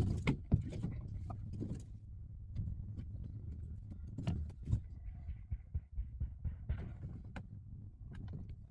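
Irregular light clicks and knocks of thin template strips being handled and pressed into place with a hot glue gun, over a low steady hum.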